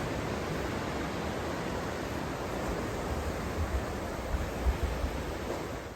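A steady, even rushing noise of outdoor ambience, with a few low buffets of wind on the microphone between about three and five seconds in; it fades out at the very end.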